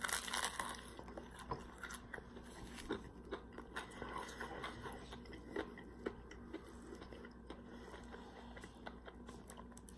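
A person biting into a crispy fried chicken leg right at the start, then chewing it with small crunches and crackles of the breading.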